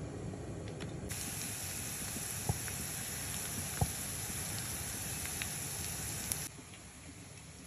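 Oil poured into a frying pan, then chopped onion and carrot sizzling in hot oil from about a second in, a steady bright hiss with two sharp ticks, which cuts off suddenly near the end.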